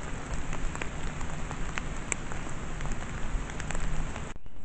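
Steady rain falling on forest foliage, with scattered ticks of single drops, picked up by a trail camera's microphone.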